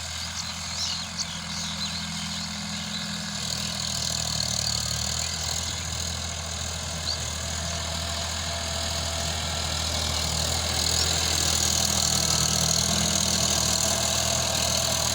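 Sonalika RX 50 tractor's diesel engine running steadily at low revs, gradually getting louder.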